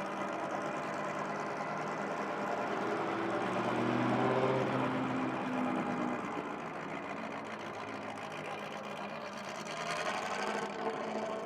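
Vintage car's straight-eight engine running, its note swelling and rising briefly about four seconds in before settling back to a steady run.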